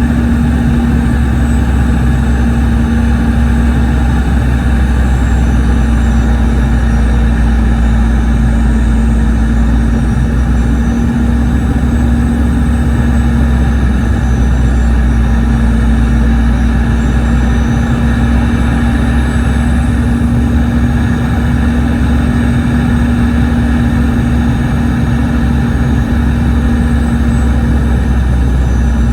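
Steady cabin drone of a Boeing 717's Rolls-Royce BR715 turbofan engines heard from inside the rear cabin: a loud, even low rumble with a constant hum over it.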